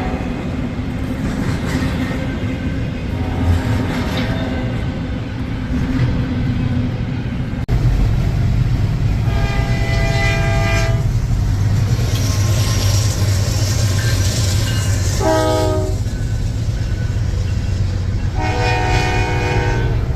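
Diesel freight locomotive passing with a steady low engine and rail rumble, its air horn sounding a long blast, a short one and then another long one in the second half. This is the closing long-short-long of a grade-crossing signal.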